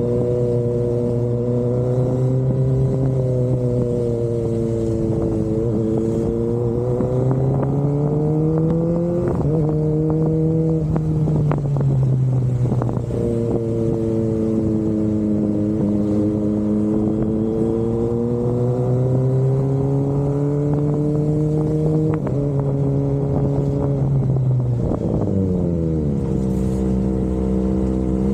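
Kawasaki Ninja ZX-25RR's 249 cc inline-four running through an Austinracing aftermarket exhaust at a steady mid-range engine speed. Its pitch climbs slowly and drops sharply a few times, then falls off near the end.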